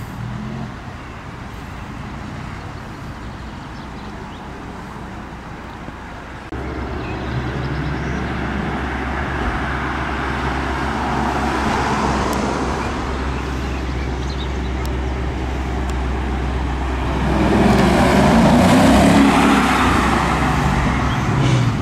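Car engines running with a low rumble that steps up in loudness about six seconds in. The engine sound swells and falls as revs rise and ease, loudest near the end as a car comes close.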